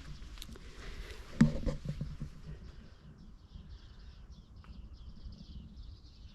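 Footsteps crunching on gravel with a thump about one and a half seconds in, then, from about three seconds in, a bird's high chirping in quick runs.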